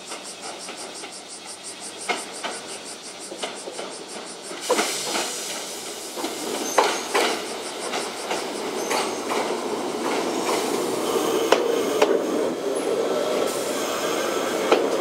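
Mizuma Railway 1000 series two-car electric train approaching and running past, its wheels knocking irregularly over rail joints. The sound grows louder as the train draws alongside, with the rumble of the running train building toward the end.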